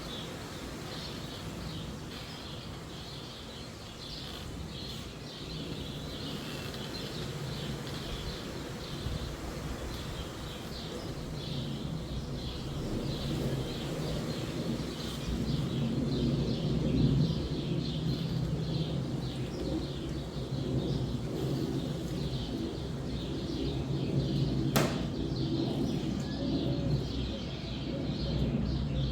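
Wind rumbling through a forest under constant busy chirping of sparrows, while a low, drawn-out creak of a branch swells up around the middle and again near the end. One sharp click sounds just before the end.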